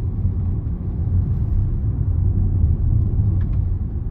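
Steady low road and engine rumble of a car driving along at over 40 mph, heard from inside the cabin.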